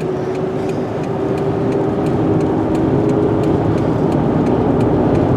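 Car driving seen from inside the cabin in strong wind: a steady road and engine drone with scattered sharp ticks throughout.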